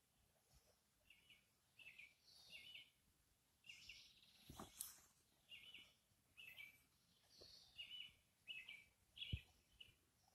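Faint outdoor birdsong: short high chirps and calls repeated every half second to a second, with two soft knocks, one near the middle and one near the end.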